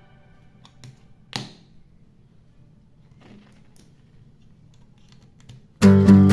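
Scattered light clicks of plastic LEGO pieces being handled and snapped together, with one louder click about a second and a half in. Strummed acoustic guitar music starts near the end.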